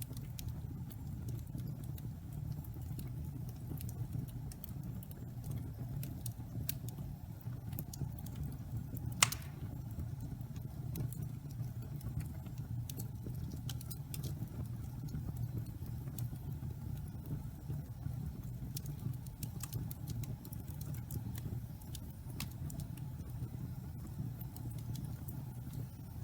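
Pine-log fire burning in a fireplace: a steady low rumble of the flames with scattered crackles from the damp wood, and one loud pop about nine seconds in.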